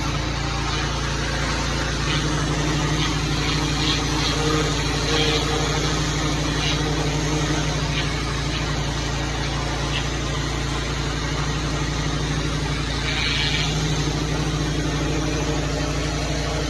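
Small engine running steadily at constant speed, with a steady rushing hiss over it.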